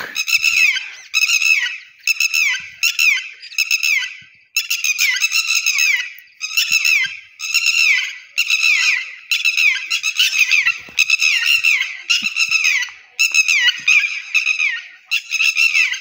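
A bird calling over and over at close range: loud, high, harsh squawks, each dropping in pitch, about two a second with short pauses between runs.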